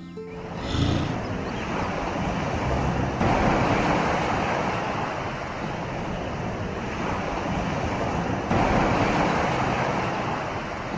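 Steady rushing noise like wind or moving water, stepping up in level about three seconds in and again about eight and a half seconds in.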